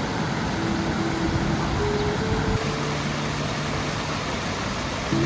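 Steady rushing noise of flowing river water, with soft sustained music notes that change pitch every second or so.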